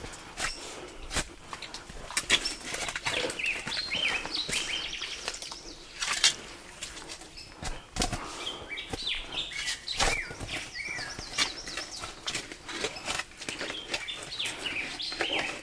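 Small birds chirping in quick short phrases, in several bursts, over a scatter of sharp clicks and cracks.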